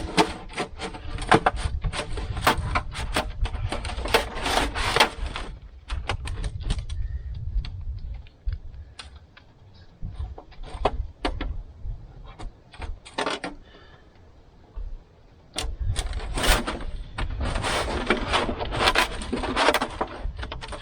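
Thin sheet metal clattering, crinkling and clicking as it is handled, bound and twisted into a pipe. Two busy stretches of handling, with a quieter spell of scattered clicks in the middle.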